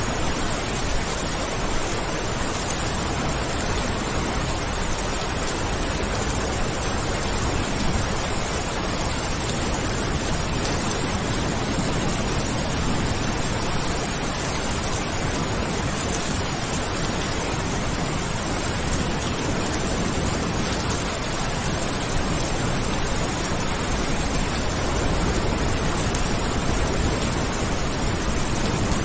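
Steady heavy rain falling, a dense, even hiss with no distinct drops or thunder claps.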